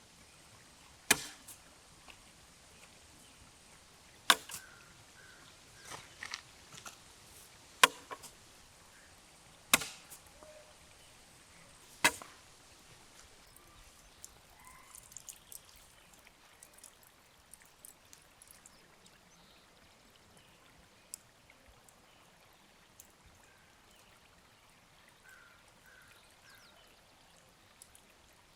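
A series of sharp knocks, five loud strokes about two seconds apart with lighter knocks between them, then only faint small ticks and rustling for the second half.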